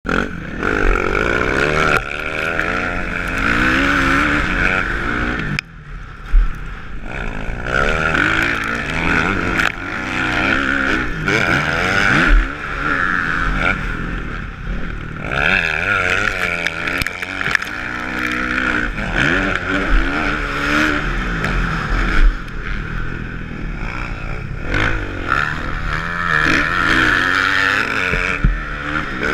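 Kawasaki motocross bike's engine revving up and down over and over, throttle opened and chopped repeatedly, with a brief sharp drop in sound about six seconds in.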